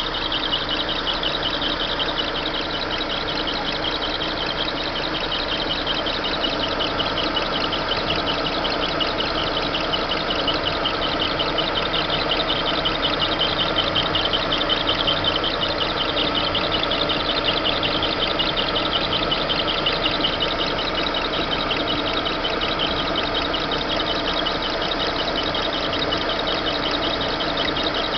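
Chevrolet Monza engine idling with an irritating steady, high, fast-fluttering noise from the engine's drive belt.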